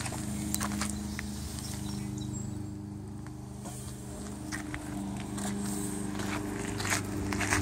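Volvo S80 engine idling steadily, with footsteps crunching on gravel.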